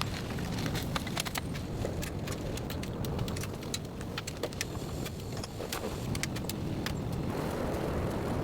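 Heavy rain: a steady rush with many sharp, irregular ticks of drops striking a nearby surface.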